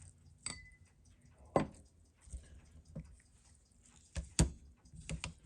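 Small hard objects handled on a workbench: scattered clicks and clinks of metal and glass, with two louder knocks, and a short ringing clink about half a second in.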